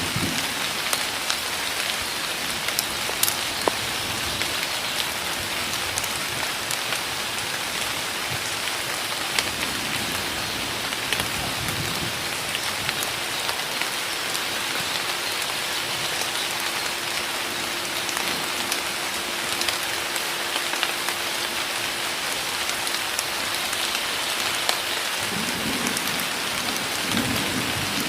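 Heavy, steady rain pouring down in a forest, a dense hiss with scattered sharper drop hits. A low rumble sets in near the end.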